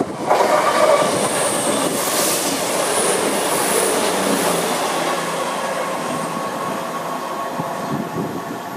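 A CrossCountry Voyager diesel-electric multiple unit passing at speed: a loud rush of wheels on rail and underfloor engines that comes in suddenly about a quarter second in and slowly fades. A thin high-pitched whine rides over it in the middle.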